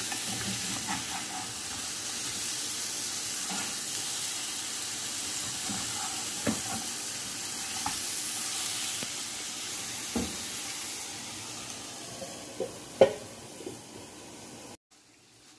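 Marinated chicken strips sizzling in oil in a frying pan, while a slotted spatula scrapes and knocks against the pan as the pieces are turned. The sizzle fades near the end and cuts off.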